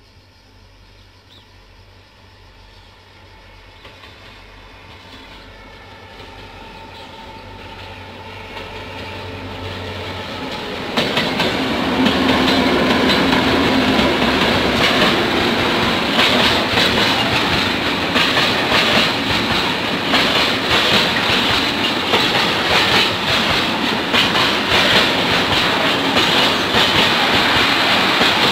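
Diesel-hauled train approaching, growing steadily louder for about ten seconds, then passing close by about eleven seconds in with a rapid clickety-clack of wheels over the rails and running noise that continues.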